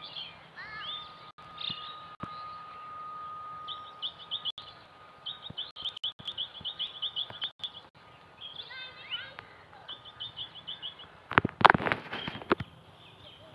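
Small birds chirping in quick high trills, with a thin steady whistle-like tone over the first few seconds and a louder, brief cry near the end.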